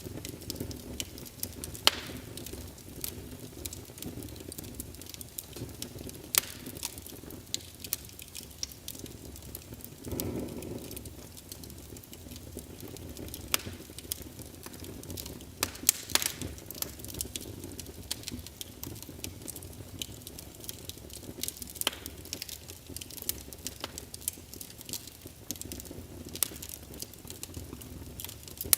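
Wood fire crackling in a fireplace: irregular sharp pops and snaps over a steady low rumble of flames, with a brief swell of the flame sound about ten seconds in.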